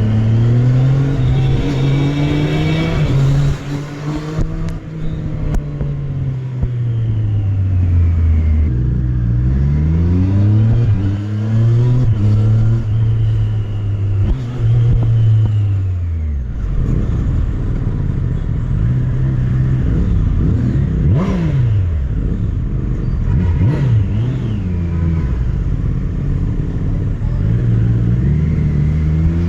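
Triumph Street Triple RS's inline three-cylinder engine under way, its pitch rising as it accelerates and falling as it slows, with a run of quick rises and falls about halfway through.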